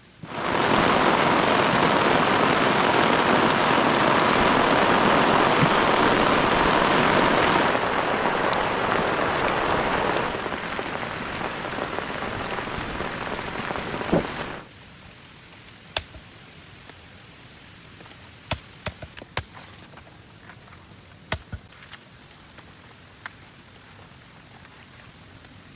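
Heavy rain pouring down as a loud, even hiss that starts suddenly, drops in level twice, then cuts off abruptly about halfway through. A much quieter background follows, with scattered sharp ticks.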